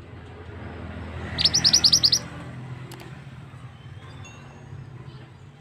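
Mantenan bird giving one fast run of about eight sharp, high notes about a second and a half in, over a steady background of running water.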